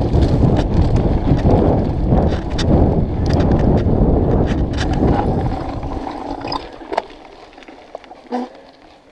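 Mountain bike riding a forest singletrack: wind buffeting the microphone with rattling and clicking from the bike. The rumble dies away about six seconds in, leaving scattered clicks and knocks.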